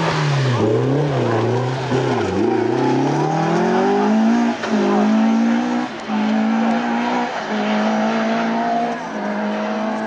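Rally car engine working hard: the revs fall and rise several times through a hairpin, then it accelerates away, changing up a gear about every one and a half seconds.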